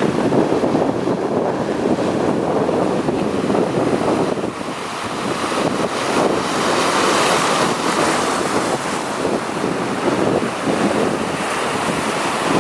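Sea waves washing against the shore with wind buffeting the microphone: a steady rushing noise that swells and eases.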